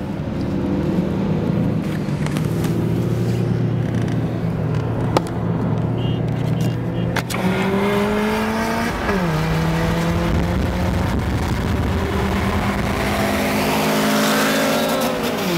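A car engine at full throttle, accelerating hard in a race. Its pitch climbs steadily, drops sharply at an upshift about nine seconds in, then climbs again to another shift near the end. It is heard from inside the cabin, with wind and road noise growing as the speed rises.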